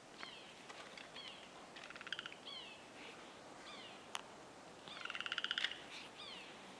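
Birds calling in the forest: repeated short high notes that slur downward, and two brief fast rattling trills, the louder one about five seconds in. A single sharp click sounds about four seconds in.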